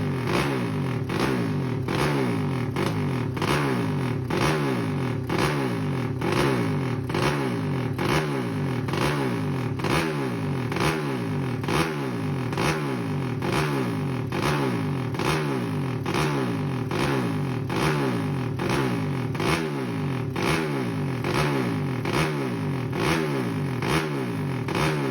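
A 200cc motorcycle engine revved in rapid, even throttle blips, a little under two a second, the revs falling away after each blip.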